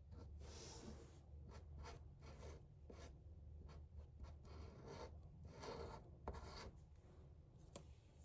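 Faint, irregular scratchy strokes of someone drawing a picture by hand, over a low steady hum.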